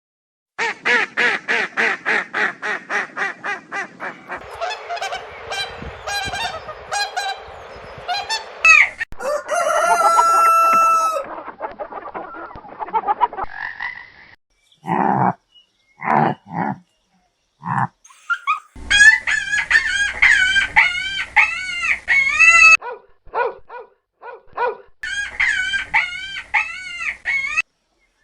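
Poultry calling in several short clips one after another: a fast run of repeated calls at first, a held call near the middle, separate calls, then two long runs of rapid calls that rise and fall.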